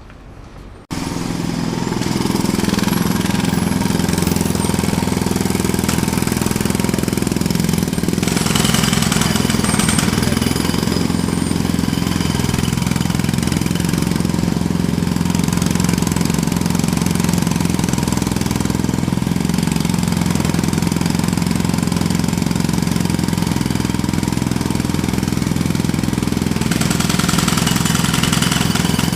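Jackhammer starting abruptly about a second in, then hammering loudly without a break.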